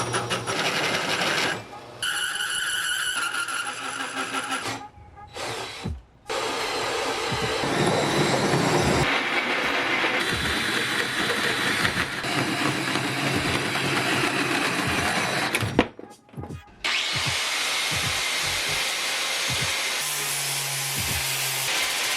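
Power grinder grinding down a steel flywheel in several short clips, each cut off by a brief break.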